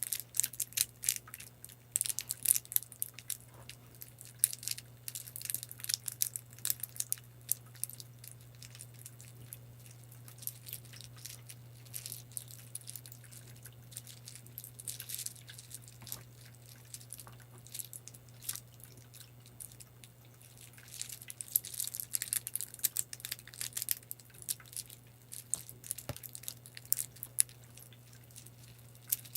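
Close-miked crisp scratching and tapping on a prop, dense crackly clicks that thin out through the middle and pick up again near the end, over a steady low hum.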